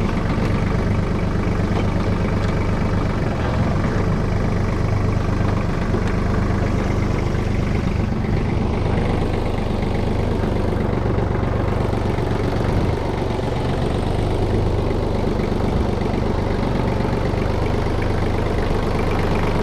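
Kubota KT215 tractor's diesel engine idling steadily.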